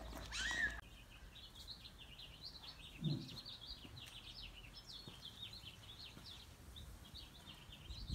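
Small birds chirping quickly and continuously over a faint outdoor background, with one brief low thud about three seconds in.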